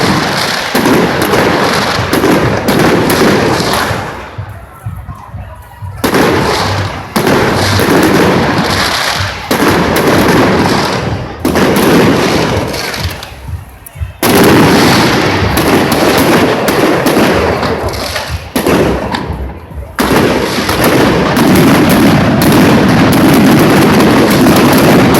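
Fireworks going off in rapid bangs and crackles, with a few short lulls, turning into a continuous dense barrage about twenty seconds in.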